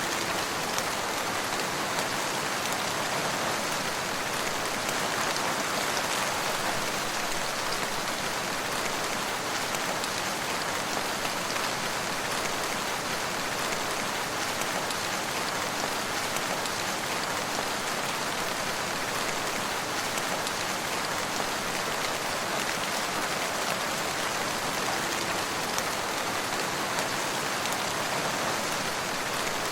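Steady rain falling, a dense even hiss with scattered individual drop taps.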